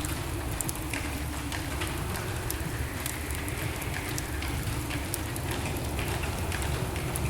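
Wood fire burning in a fireplace: a steady low rush of flames with frequent small crackles and snaps.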